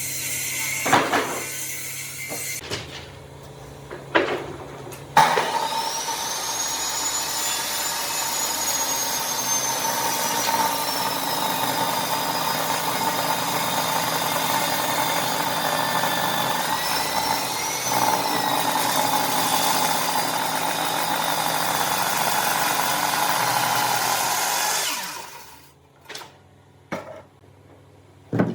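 A woodworking power tool starts about five seconds in, runs steadily with a high whine for about twenty seconds, then stops. A few sharp knocks come before it starts and again near the end.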